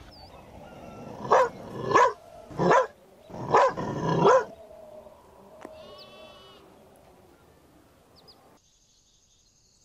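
A dog barking about five times in quick succession.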